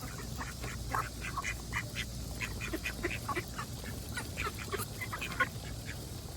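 A flock of ducks quacking, many short calls overlapping several times a second.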